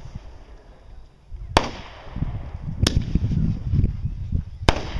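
Fireworks going off: three sharp bangs about a second or two apart, each trailing off briefly, like aerial shells or salutes bursting.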